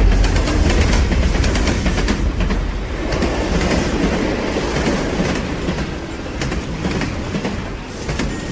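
Train running on rails: a steady low rumble with rattling wheel clatter, slowly fading toward the end.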